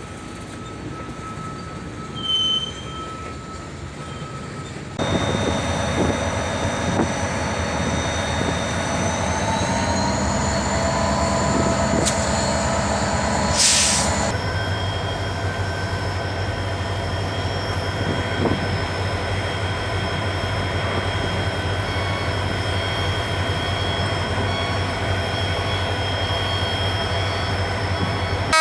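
Diesel locomotives moving a long freight train slowly, with steady high-pitched wheel squeal over the running of the train. The sound gets louder about five seconds in and changes pitch about fourteen seconds in, just after a short loud hiss or clank.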